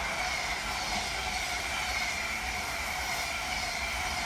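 Electric multiple-unit passenger train running past, with a steady high whine that sinks slightly in pitch over its running noise.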